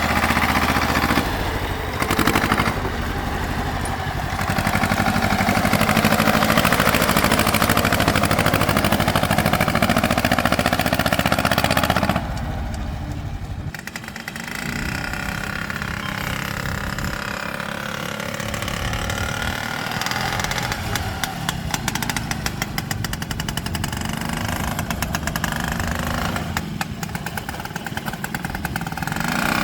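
Tractor engines running, louder for the first twelve seconds, then dropping suddenly to a quieter, steady putter.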